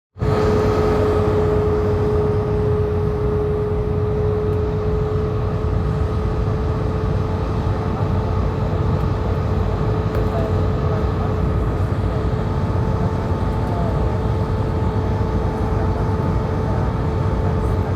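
Airliner cabin noise in flight on approach: a steady rush of engines and airflow with a constant steady hum over it.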